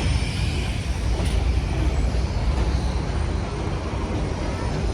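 Steady low rumble and hiss of the excursion train, with no distinct clanks or whistles.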